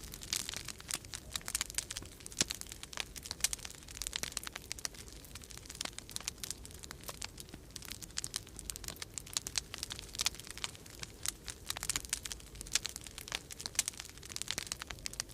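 Wood fire crackling, with many irregular sharp pops and snaps, over a low steady rumble.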